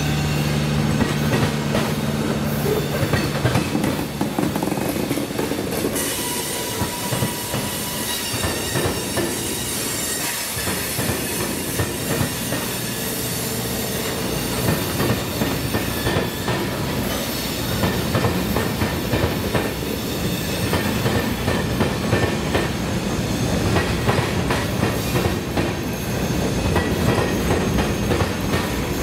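A CSX freight train's cars rolling slowly past, their wheels clacking over the track and crossing with a steady rumble and some faint wheel squeal.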